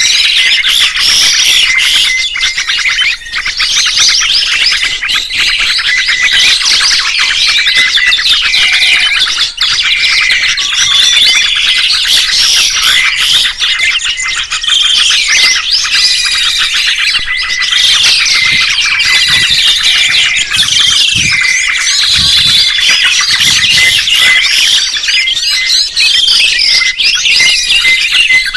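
Songbirds singing and chirping together in a dense, continuous chorus of quick, overlapping high notes.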